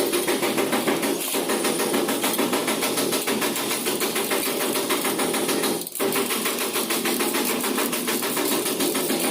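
Handheld power tool running with a fast, even buzzing rhythm, letting off for a moment about six seconds in, as in bodywork on a damaged vehicle.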